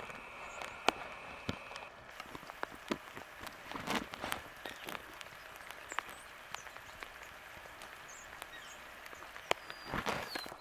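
Steady rain with individual drops tapping sharply and irregularly on a surface. Two louder, brief noises come about four seconds in and again near the end.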